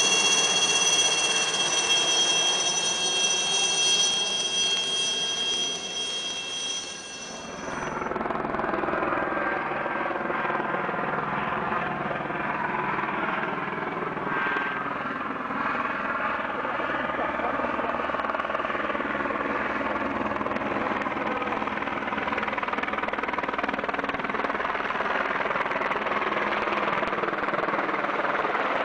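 Turbine helicopter, a steady high-pitched whine for the first several seconds, then, after an abrupt change about eight seconds in, the fuller steady noise of rotor and engine.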